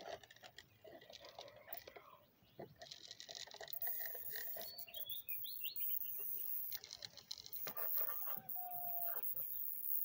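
Birds chirping in the yard, short high calls about halfway through, over clicks and rustle from the phone being handled.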